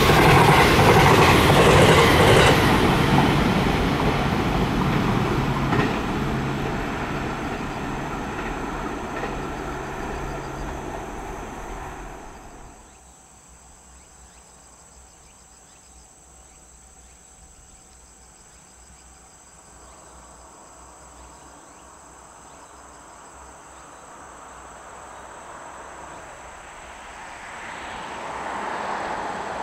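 A white limited express electric train passing close by, its wheels clattering over the rail joints, the sound fading away as it leaves. After a sudden drop to quiet outdoor ambience, an EF510 electric locomotive hauling a container freight train approaches, growing louder toward the end.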